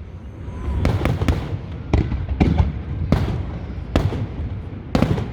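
A fireworks display: aerial shells bursting in sharp bangs about once or twice a second, over a steady low rumble of echoing booms.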